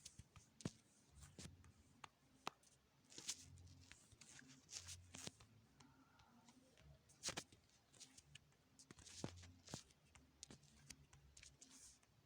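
Faint, irregular sharp clicks and light taps, a dozen or so spread unevenly, over a low steady room hum.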